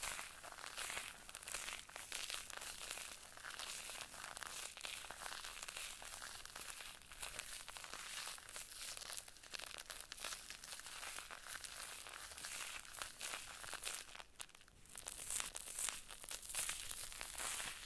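Close-miked crinkling and crackling, a dense stream of small crackles with a brief pause about fourteen and a half seconds in.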